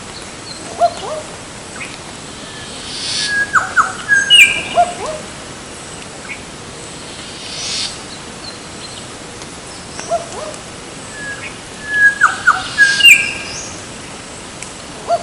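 A bird calling in two matching bouts about eight seconds apart. Each bout is a rasping, hissy sweep followed by a quick run of clear whistled notes, with a few softer single notes between the bouts.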